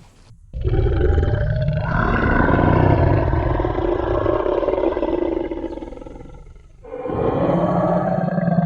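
Tyrannosaurus rex roar sound effect: a long, deep, growling roar starting about half a second in and slowly fading out over some six seconds, then a second roar beginning near the end.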